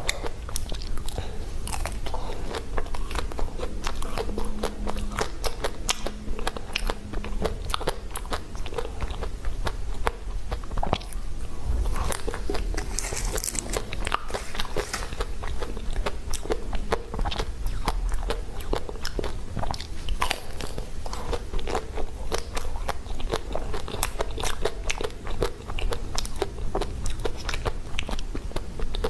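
Close-miked biting and crunching of a chocolate-coated ice cream bar: the hard chocolate shell cracks in many crisp snaps, with chewing between the bites.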